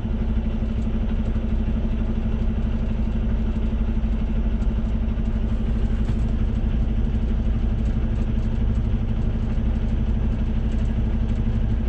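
Semi truck's diesel engine running with a steady low drone under an even wash of road noise, unchanging throughout.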